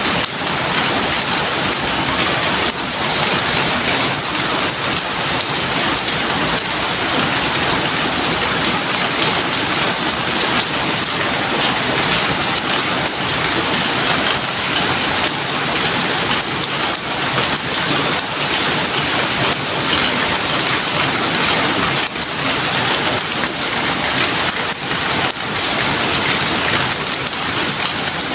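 Heavy rain falling steadily: a dense, even hiss of drops hitting surfaces.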